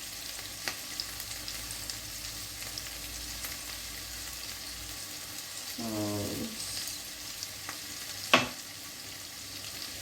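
Chopped carrots and green peppers frying with onion and garlic in olive oil in a cooking pot, a steady sizzle. A short pitched sound comes about six seconds in, and a single sharp knock about eight seconds in.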